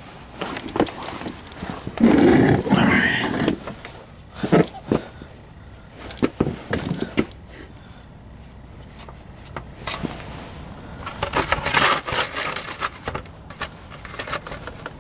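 Oil filter being worked loose by hand under a car during an oil change: irregular handling noises, rustling and small metallic clinks, with louder bursts about two seconds in and again near the end.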